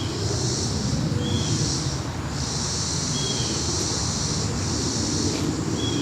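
Distant jet airliner rumble, steady and low, lingering after a departure. Over it, insects buzz in high-pitched waves that swell and fade every second or two, with short faint chirps.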